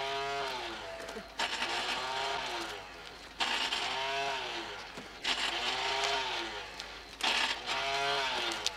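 A car engine revved again and again, about every two seconds. Each rev rises and then falls in pitch, with a rushing hiss, as the driver struggles to get the car moving.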